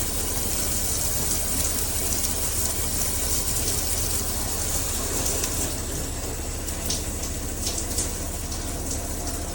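Handheld shower head spraying water in a steady rush.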